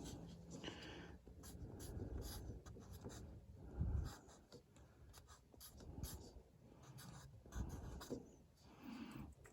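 Marker writing the date on a replacement furnace media filter: faint, irregular scratchy strokes with a few light knocks from handling the filter.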